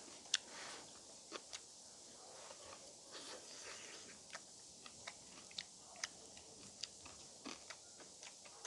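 Someone chewing grilled pork close to the microphone: faint soft chewing with sparse, irregular sharp clicks.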